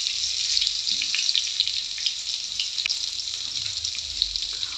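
Peeled taro corms frying in hot vegetable oil in an aluminium kadai: a steady sizzle with many small crackles.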